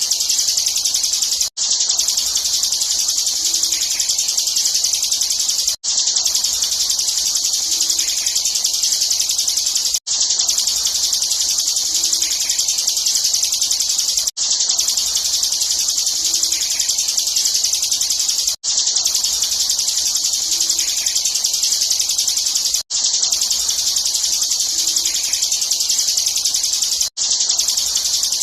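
Bar-winged prinia (ciblek) singing in the rapid, buzzing 'ngebren' style: a dense, continuous high trill, looped, with a brief gap about every four seconds.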